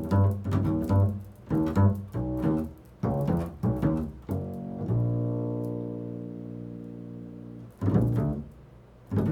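Improvised solo music on a low-pitched string instrument: a run of short, sharply struck notes, then one long note held and slowly fading for about three seconds before the short notes resume near the end.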